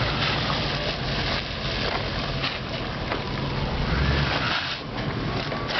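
Pickup truck engine running under a steady rush of wind noise on the microphone, with a few sharp knocks near the end.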